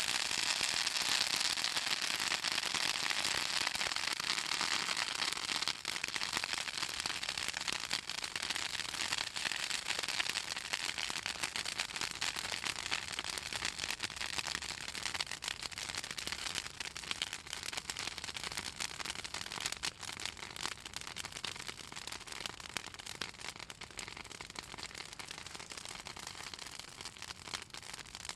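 Fallen southern magnolia branches burning in a bonfire, crackling and popping densely; the oil in the wood makes it crackle. The crackling is strongest in the first several seconds and slowly eases off.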